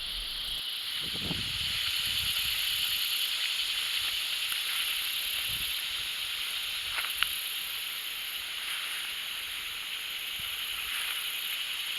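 Steady outdoor insect chorus, a continuous high-pitched hiss-like drone. There is a soft low thump about a second in and a single sharp click about seven seconds in.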